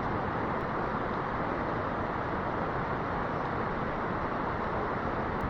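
Steady rushing of a mountain creek, an even wash of water noise that does not change.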